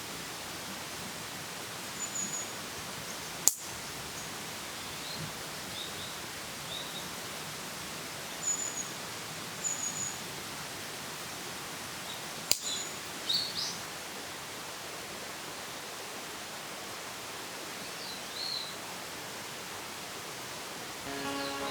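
Woodland ambience: small birds chirping now and then over a steady hiss, with two sharp cracks, one a few seconds in and one about halfway.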